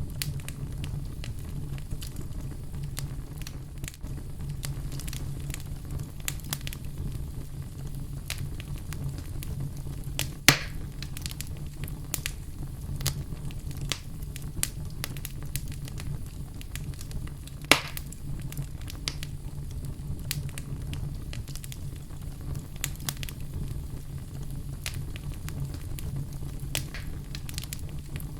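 Wood fire in a fireplace crackling, with a steady low rumble of flames under constant small snaps. Two much louder pops stand out, about ten seconds in and again near eighteen seconds.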